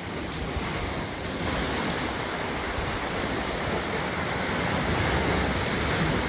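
Steady rushing noise of flowing water, with a fluctuating low rumble underneath.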